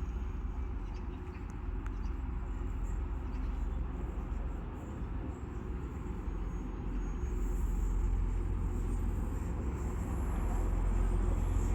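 Low, steady diesel rumble of trains at a station platform, growing louder about eight seconds in as a TransPennine Express Class 185 diesel multiple unit comes in.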